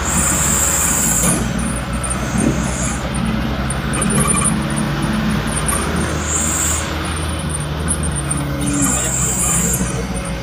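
Truck engine running steadily on the road, with a low drone and road noise.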